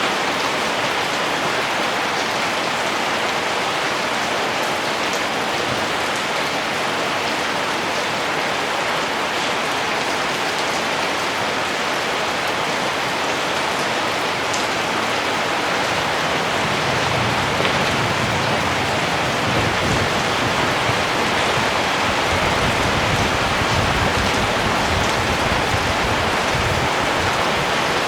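Steady rain falling, an even hiss of drops on surfaces. About two-thirds of the way in a low rumble joins underneath the rain.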